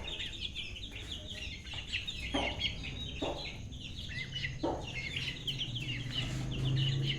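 Young Shamo and Aseel chicks peeping in a rapid, continuous chorus of short high cheeps. Three lower clucks cut through about two and a half, three and four and a half seconds in.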